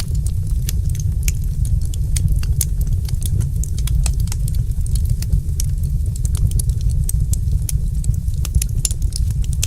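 Wood fire crackling: many sharp, irregular pops and snaps, several a second, over a steady low rumble.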